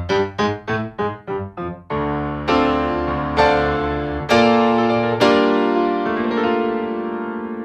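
Nord Stage 3 digital stage piano playing a layered patch of two sampled grand pianos (Royal Grand and White Grand). A quick run of short, detached notes gives way to full chords struck about once a second, the last one left ringing and fading.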